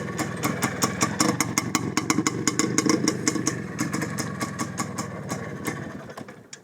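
Izh Planeta 5's single-cylinder two-stroke engine, on magneto ignition, running at low revs with a regular popping beat. It fades away over the last second.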